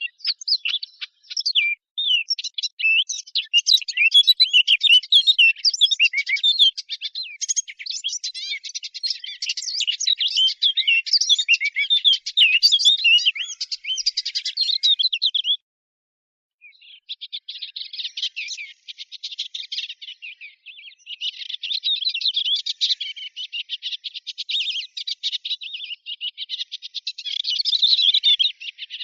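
The small warbler known in Arabic as the fig bird or dakhal singing a fast, continuous run of high twittering notes, with a break of about a second halfway through before the song resumes.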